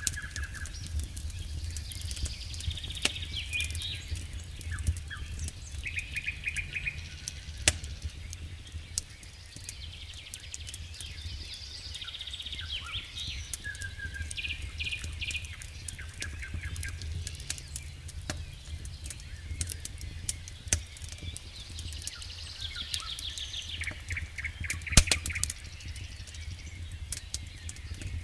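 Campfire crackling with sharp, irregular pops, while birds sing short repeated phrases every few seconds. A steady low rumble runs underneath.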